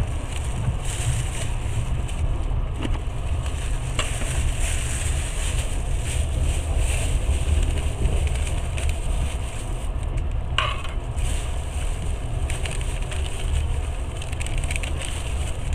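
Passenger train running, heard from inside the carriage: a steady low rumble with a noisy haze and a few scattered clicks, and a short hissing, scraping burst about ten and a half seconds in.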